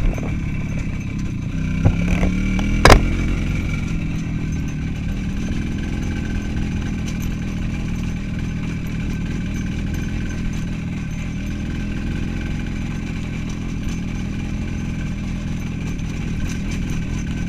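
Motorcycle engine running steadily while riding on a rough forest track, with road and wind noise. Two short knocks come about two seconds in, and a louder sharp thump follows about three seconds in.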